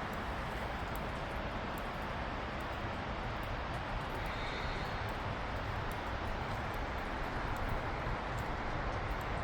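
A steady rushing noise that does not rise or fall, with faint scattered ticks.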